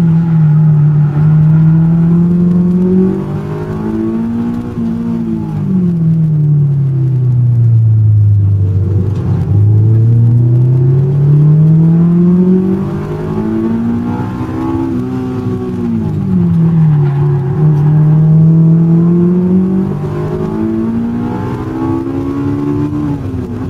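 Honda S2000 AP1's F20C inline-four engine driven on a circuit, its note climbing over several seconds as the car accelerates, then falling away, several times over.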